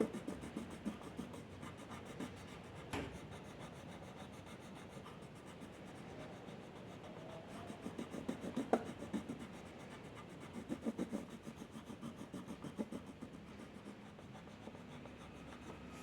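Drawing strokes on paper: bursts of quick back-and-forth scratching, as in shading or colouring, with pauses between them and a couple of sharp taps.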